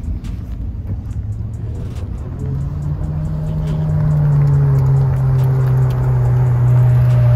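Ferrari V8 engine running at low revs as the car pulls out and drives slowly past, a steady low engine note that comes in about two and a half seconds in and grows louder over the second half.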